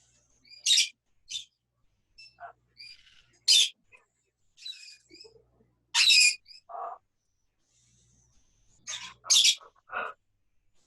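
Pet parrots giving a series of short, loud squawks and chirps, with softer calls between them.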